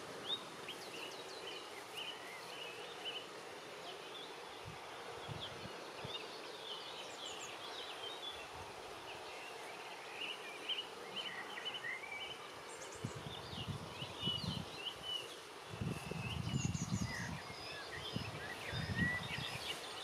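Several small birds singing and calling, with many quick chirps and short trills overlapping, over a steady outdoor hiss. About two-thirds of the way in, irregular low rumbling gusts come and go.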